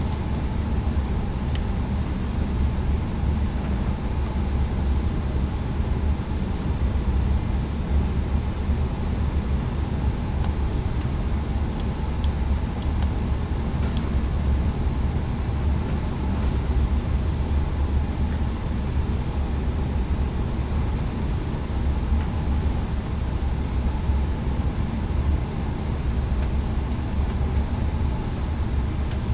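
Steady low rumble inside the cabin of an Airbus A320neo on the ground before takeoff, with a few faint clicks about halfway through.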